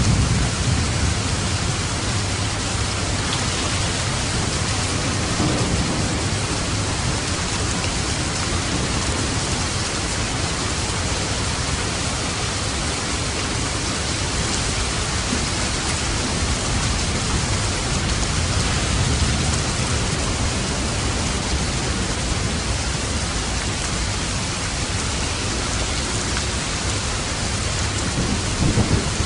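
Steady, even rain falling, with low rumbles of distant thunder near the start and again near the end.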